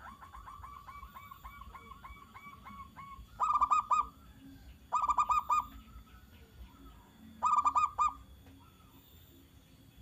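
Zebra dove (perkutut) cooing: a quick run of about a dozen short, soft notes over the first three seconds, then three loud, clipped phrases of a few rapid notes each, roughly two seconds apart.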